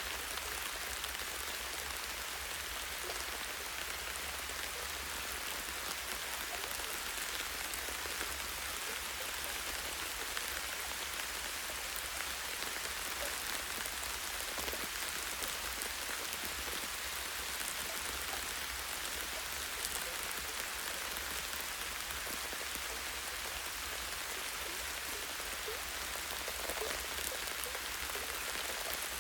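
Light, steady rain falling on leaves and a tree branch, an even hiss dotted with small drip ticks, over a faint low rumble.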